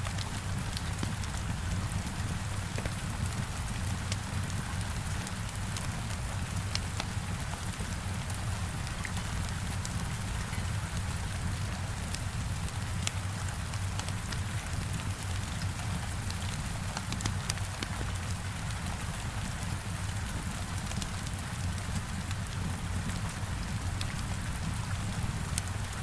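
Heavy rain beating steadily on a window, with a low rumble and a scattering of small sharp crackles from a wood fire.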